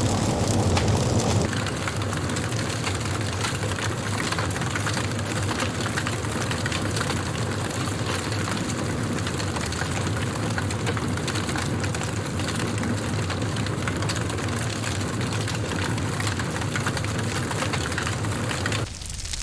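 Wood fire burning in a fireplace: a dense run of small crackles and pops over a steady low rumble of the flames. The sound drops a little in level about a second and a half in.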